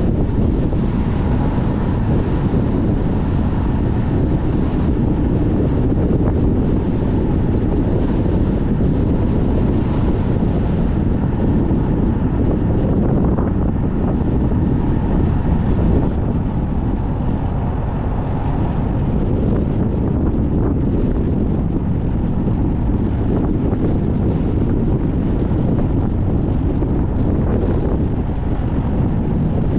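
Strong wind rushing and buffeting the microphone, mixed with a car's driving noise, as a steady low rumbling hiss.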